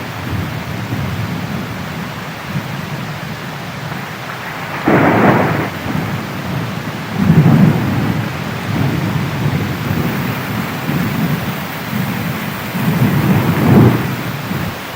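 Steady heavy rain with thunder: a sharp thunderclap about five seconds in, followed by low rolling rumbles, with another loud rumble near the end.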